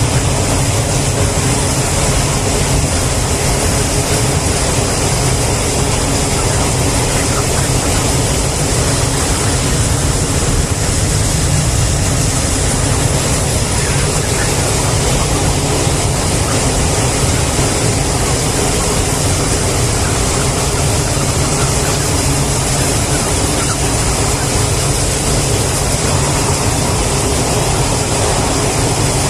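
Steady, unbroken machine-like noise, heaviest in the low end with a hiss above, holding the same level throughout.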